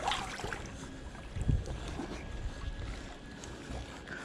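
Background noise from a kayak on the water: light wind on the microphone and water movement, with a dull low knock about a second and a half in.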